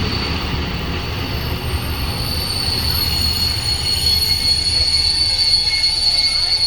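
Regional train running along the line, heard from on board: a low rolling rumble with a steady high-pitched wheel squeal that grows stronger after about three seconds.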